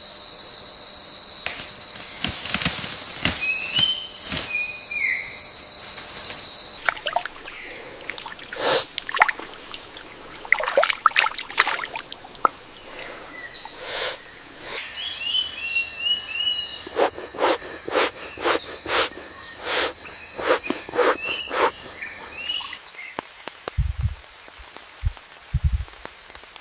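Rainforest ambience: a steady, high-pitched insect drone that cuts off about 7 s in, returns near the middle and stops again near the end, with short bird chirps and many sharp crackles and taps. A few low thumps come near the end.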